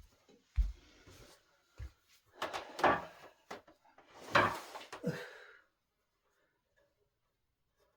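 Handling of wooden furniture parts: two dull knocks, then two scraping or rubbing noises of about a second each.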